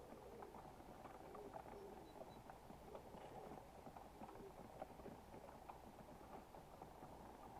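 Faint, quick irregular tapping and scratching: grey squirrels and pigeons pecking and scrabbling at peanuts and seeds on the hut roof close to the camera.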